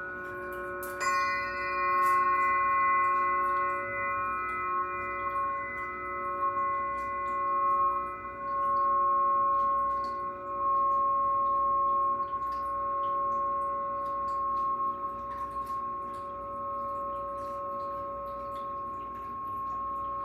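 Glass singing instruments, a singing pyramid and bowl, ringing with several sustained pure tones. One is struck about a second in, adding a new set of ringing tones with a brief bright shimmer on top. The tones ring on, slowly swelling and fading in loudness.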